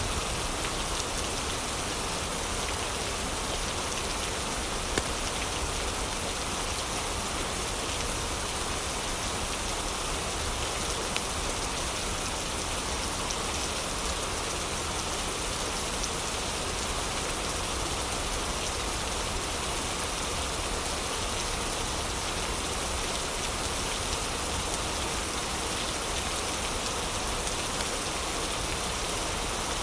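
Steady heavy rain, a dense even hiss of falling drops. Two sharp pops stand out, about five and eleven seconds in.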